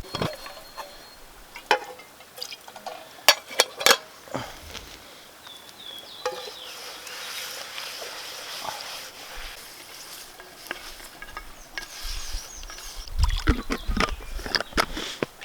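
Clinks, knocks and scrapes of camp cookware and utensils being handled. There is a stretch of steady hiss in the middle and a cluster of knocks near the end.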